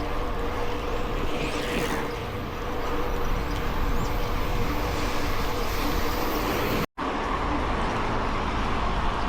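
Mountain bike being ridden: a steady rolling noise from the tyres and drivetrain, mixed with wind on the action camera's microphone. The sound cuts out for an instant about seven seconds in.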